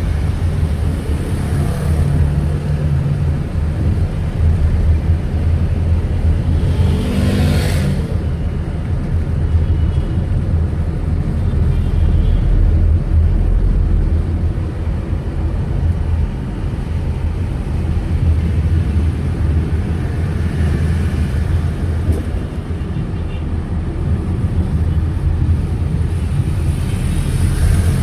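Steady low rumble of a car driving through city traffic, with engine and road noise. About seven seconds in, a vehicle passes close, briefly louder and sweeping in pitch.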